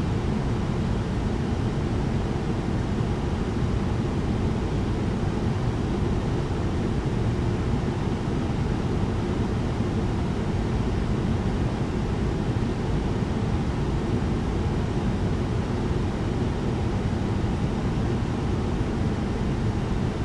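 Airplane cabin air vent blowing a steady hiss over the low, even rumble of the cabin in flight, with no change in level.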